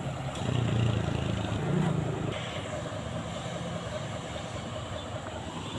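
Truck engine running with a low rumble, swelling for the first two seconds and then settling to a steadier, quieter hum.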